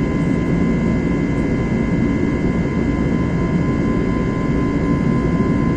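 Airbus A321neo's CFM LEAP-1A turbofans heard from inside the cabin, a steady loud rumble with a few high whine tones held constant over it.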